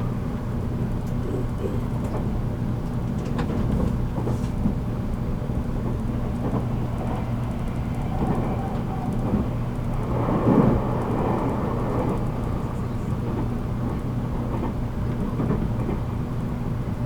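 JR Kyushu 783-series electric train running at speed, heard from inside the motor car MoHa 783-13: a steady low rumble of wheels on rail and traction equipment, with occasional sharp clicks and a louder swell about ten seconds in.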